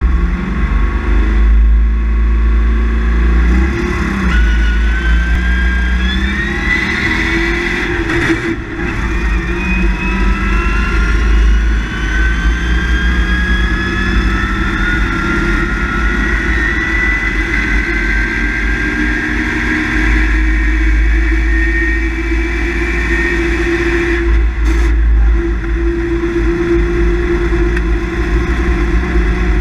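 Rally car engine heard from inside the cabin at speed, its revs climbing steadily under acceleration, broken twice by brief dips that sound like gear changes, over a loud low drone.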